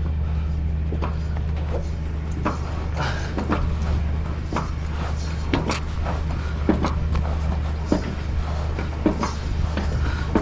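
Truck engine idling steadily, with repeated clunks and short metal creaks as the lorry trailer's roof is raised.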